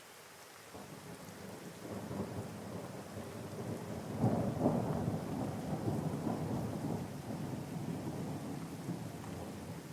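Rain falling with a long roll of thunder that builds from about a second in, is loudest near the middle, and slowly dies away.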